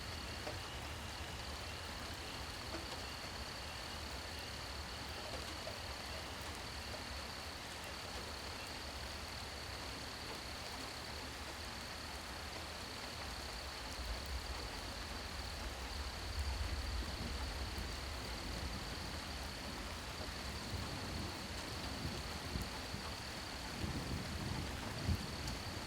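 Steady rain falling, an even hiss, with a continuous high-pitched tone running over it. A low rumble swells about halfway through and again near the end.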